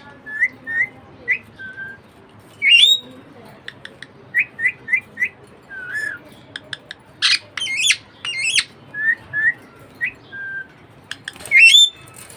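Budgerigar chattering: a run of short chirps and whistles, broken by several louder squawks that waver quickly in pitch.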